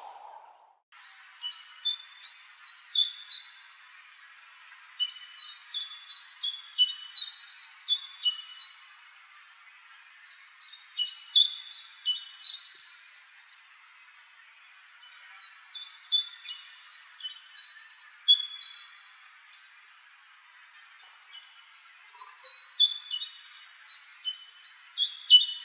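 A songbird singing in woodland: about five phrases of quick, high chirping notes, each a few seconds long, with short pauses between them.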